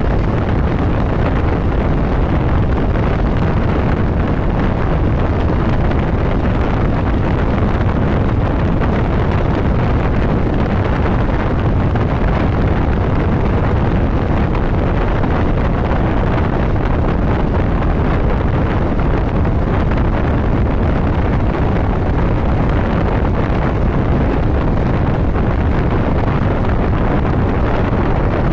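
Steady wind noise on the microphone of a motorcycle riding at road speed, with the bike's running engine and tyre noise mixed into it.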